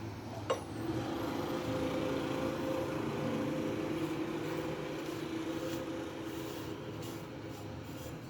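Denso starter motor running on a test: a sharp click about half a second in, then the motor spins with a steady hum that slowly fades over the following seconds.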